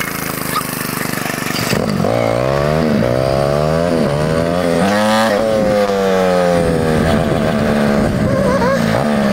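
Mini bike engine running under load, its pitch climbing and dropping several times as the rider works the throttle and gears.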